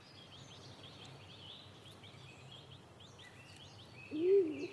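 Small birds chirping faintly in the background. About four seconds in, a stock dove starts a low coo that rises and falls.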